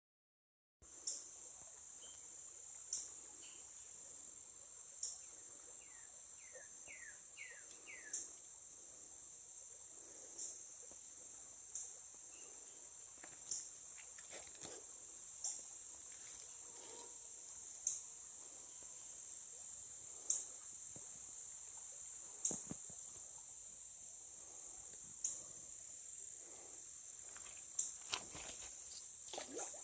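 A steady, high-pitched insect chorus, with a louder sharp chirp every couple of seconds. A short run of five quick chirps comes about six seconds in.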